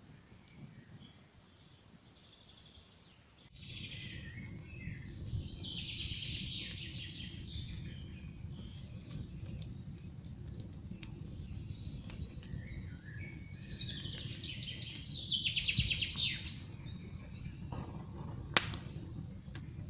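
Wood campfire crackling and popping under forest birdsong, the sound becoming abruptly louder about three seconds in. Birds sing in repeated bright phrases throughout, and a single sharp pop near the end is the loudest sound.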